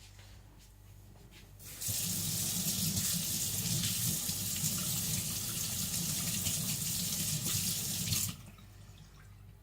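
Water tap running steadily, turned on about two seconds in and shut off near the end, about six seconds in all.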